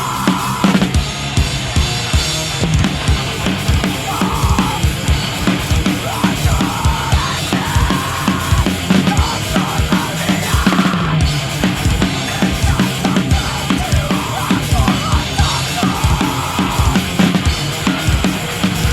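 Drum kit played along to a heavy metal recording: fast, dense bass drum strokes with snare and cymbal hits over the song's distorted band track.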